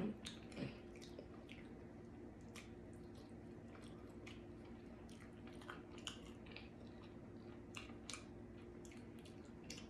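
Faint wet chewing and lip smacks of someone eating sauced barbecue rib tips by hand, heard as scattered short clicks over a steady low hum.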